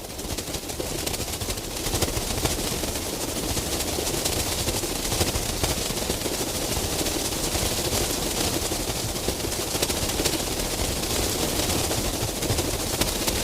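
A huge swarm of bats streaming out of a cave, a dense continuous crackle of countless wingbeats and calls, growing louder about two seconds in.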